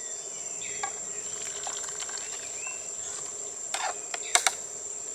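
Steady high-pitched drone of insects such as crickets, with a few faint chirps and several light sharp clicks, two of them close together near the end.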